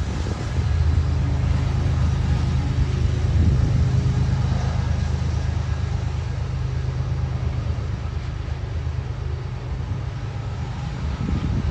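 Diesel locomotives of a slow-moving coal train running with a steady low hum, strongest in the first few seconds and easing a little after.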